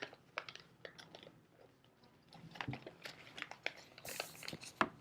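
Sheet of origami paper crinkling and crackling as it is folded and creased by hand, with irregular short crackles and a sharper crinkle near the end.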